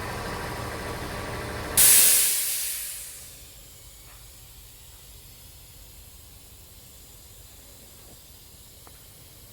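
A steady running hum that stops about two seconds in, just as a loud burst of hiss breaks out and fades away over about a second and a half. A faint steady hiss is left afterwards.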